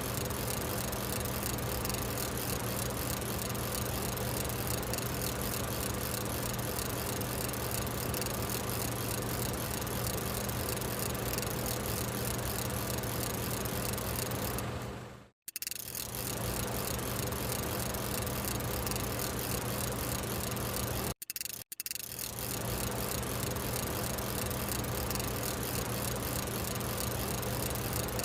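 Parrot AR.Drone 2.0 quadcopter's four rotors buzzing steadily in flight: a constant low hum with hiss over it. The sound cuts out abruptly twice, about halfway through and again about three quarters through.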